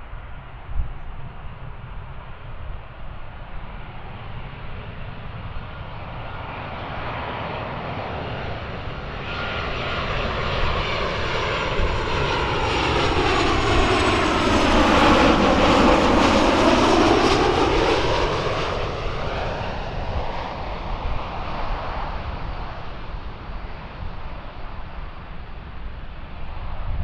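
Jet airliner passing close by, its engine noise building, peaking about halfway through with a sweeping, shifting tone, then fading away.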